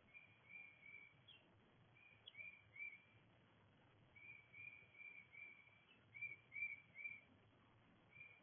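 Songbird singing: short phrases of three to five clear whistled notes, each phrase repeated after a pause of about a second, over a faint low hum.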